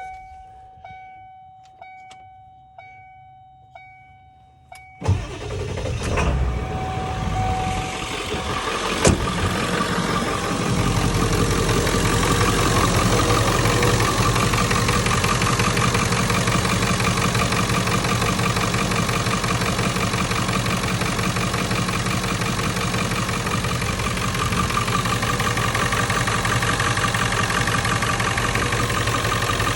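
A dashboard chime sounds in a steady repeating pattern. About five seconds in, the 1997 Ford F-350's 7.3L Powerstroke V8 turbo-diesel cranks and starts, then settles into a steady idle. The knocking chatter has been traced to the failing alternator, now replaced.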